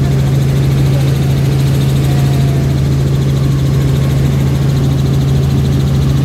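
Helicopter in flight, giving a steady, loud, unbroken engine and rotor drone with a strong low hum.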